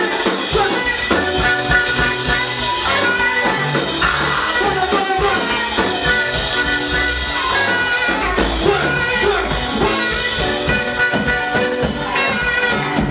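Live praise-and-worship music from a church band: singing over instruments and a drum kit with a steady beat.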